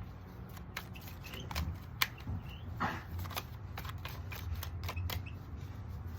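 Tarot cards being handled and shuffled: irregular light clicks and snaps of the cards.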